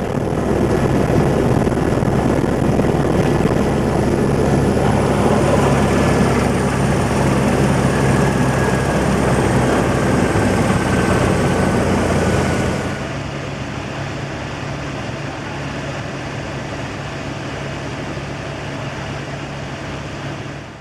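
Helicopter rotor and turbine running loud and steady, with a faint high whine that slides slightly lower, as the helicopter comes in to land. About two-thirds of the way through the sound drops noticeably and its highest hiss falls away.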